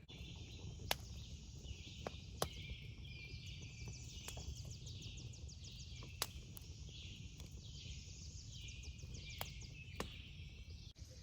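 Faint high-pitched bird chirping in repeated quick trilled phrases, over a low steady outdoor rumble, with a few sharp clicks.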